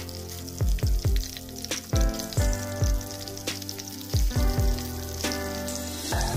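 Fish cakes sizzling and crackling as they fry in hot oil in a frying pan. Background music with repeated low drum hits plays over it.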